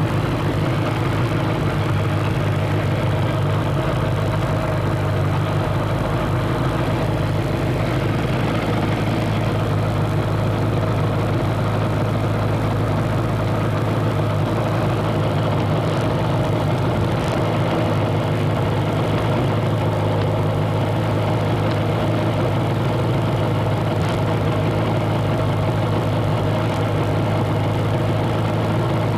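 Motorcycle engine idling steadily, close by.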